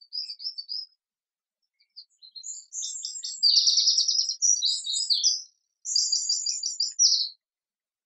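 A songbird singing high, rapid notes and trills in three phrases: a short one at the start, a longer, louder run from about two seconds in, and a final trill ending a little before the close, with clean silence between phrases and no background noise.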